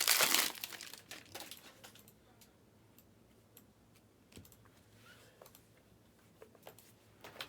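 A short crinkle of plastic wrapping at the start, fading within the first second or two, then faint scattered clicks and taps like typing on a computer keyboard.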